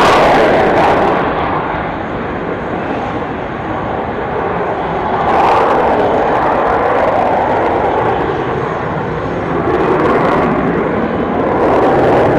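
A fixed-wing aircraft's engines running loud and steady during departure, swelling a couple of times.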